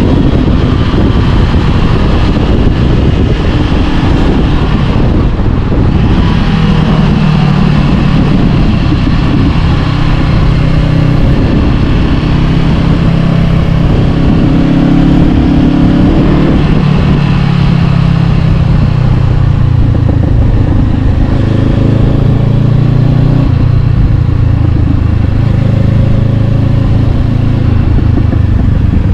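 Honda CB500X parallel-twin engine running through an Arrow Pro-Race exhaust while riding. The engine note rises and falls with the throttle, climbing at several points and settling lower for long stretches.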